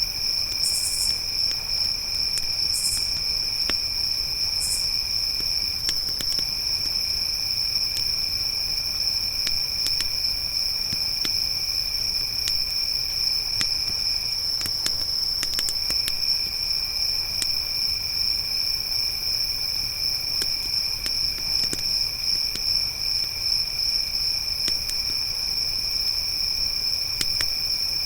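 Crickets trilling steadily in a continuous chorus at two high pitches, with three short higher insect chirps in the first few seconds. Scattered light pops of a crackling campfire run throughout.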